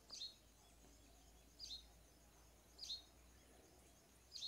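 Faint bird chirping over near silence: a short, high chirp that falls slightly in pitch, repeated four times about every second and a half.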